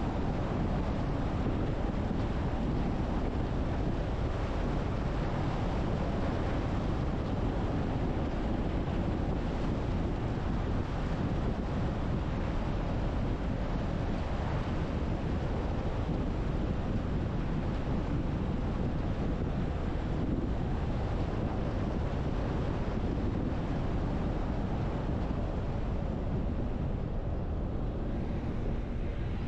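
Steady wind noise on the microphone, an unbroken rushing hiss heaviest in the low end.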